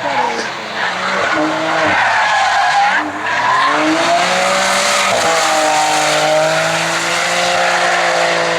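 Hill-climb race car engine at high revs, its pitch dropping sharply twice in the first three seconds as it slows, then climbing and holding high under hard acceleration.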